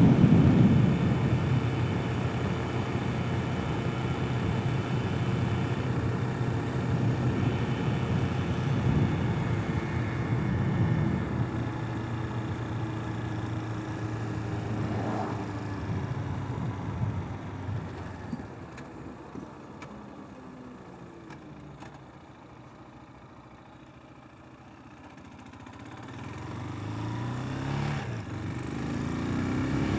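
Single-cylinder 250 cc enduro motorcycle engine running at speed, with wind noise. It eases off and goes quiet about two-thirds of the way through, then picks up again near the end, its pitch rising as it accelerates.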